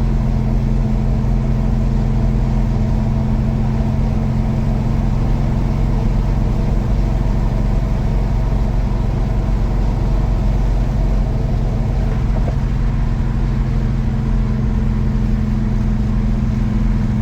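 1967 Pontiac GTO's engine and exhaust heard from inside the cabin, a steady low drone while cruising at an even speed.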